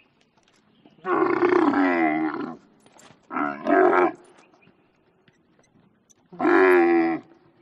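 Dromedary camel calling: three drawn-out calls with a wavering pitch, the first about a second in, the second shorter and broken in two, the last near the end.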